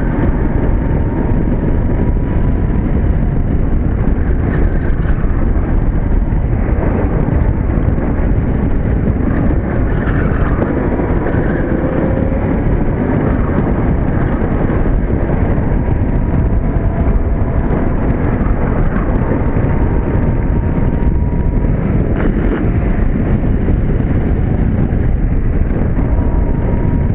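Electric go-kart at speed: steady wind rush over the onboard microphone and rumble from the kart, with a faint electric motor whine that rises and falls in pitch as the kart speeds up and slows.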